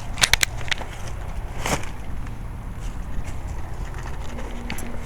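Outdoor heat pump unit starting up, a steady low hum coming on about four seconds in over a background rumble. A few sharp clicks come right at the start.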